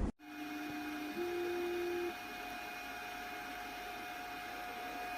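Elegoo Mars 3 resin 3D printer running: a steady tone from its motor for about two seconds, stepping up in pitch once about a second in, over a steady hum that runs throughout.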